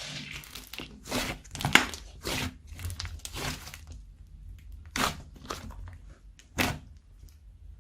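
Slime being squished and mixed by hand: an irregular run of squelches and crackles, about one or two a second, with one sharper pop a little under two seconds in.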